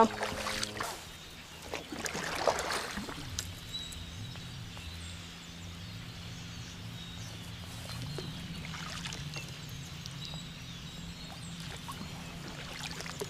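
Kayak on the river: water and paddle sounds, with a few sharp knocks against the hull in the first three seconds, then steadier water noise with a faint low hum.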